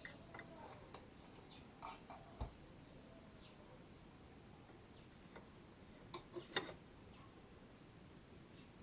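A few light clicks and taps of small parts or tools being handled, over near-silent room tone: one short group about two seconds in and another about six seconds in.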